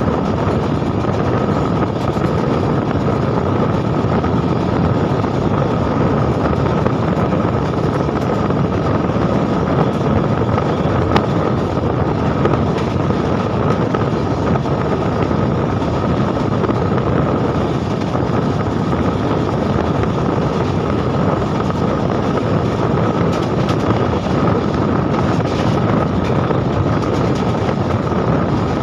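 Steady running noise of a fast-moving Indian Railways train heard from its open door or window: wheels rolling on the rails and wind rushing past. A steady whine runs under it.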